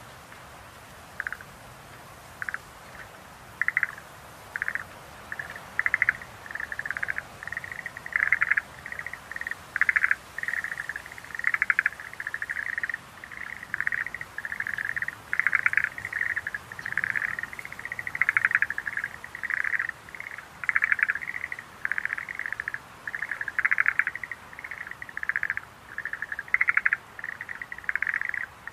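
Schlegel's green tree frogs calling: short, rapidly pulsed trills. A few scattered calls begin about a second in, then from about six seconds on they build into a dense, overlapping chorus.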